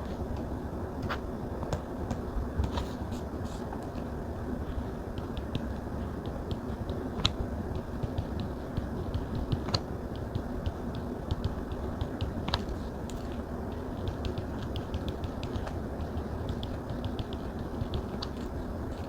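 Small, sharp taps of a stylus on a tablet's glass screen, some single and some in quick runs, over a steady low background hiss.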